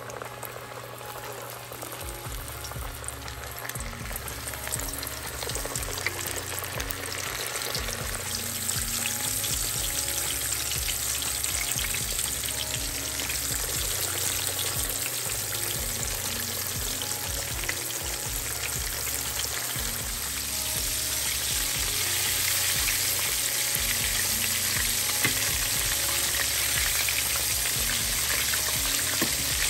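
Breaded whiting fillets frying in hot oil in a stainless steel pan: a steady, dense sizzle that grows gradually louder as more fish is in the oil.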